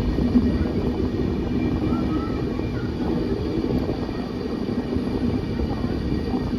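Steady low rumble of a moving vehicle, with a faint steady hum.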